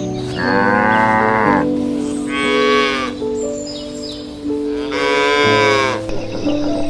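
A cow mooing three times, each call about a second long and rising then falling in pitch, over background music with sustained notes.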